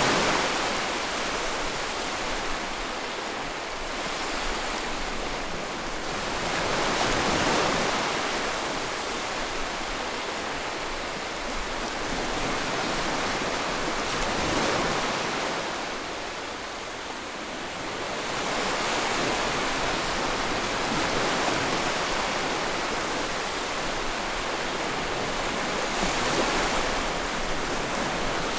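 Ocean waves washing onto the shore: surf that swells and ebbs in slow surges about every six to seven seconds.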